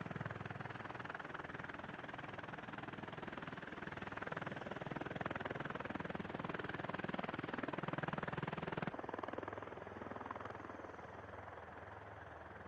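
V-22 Osprey tiltrotor's rotors and engines running, a dense, steady rotor noise with a fast pulsing beat. About nine seconds in it changes abruptly and becomes quieter.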